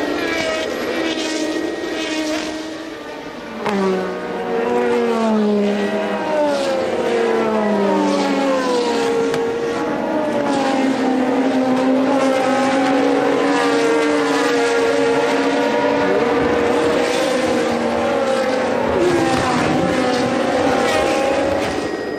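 1982 Formula One car engines at racing speed, several engine notes overlapping. A louder car comes in about four seconds in, its pitch falling in steps and then holding high and steady as it runs on.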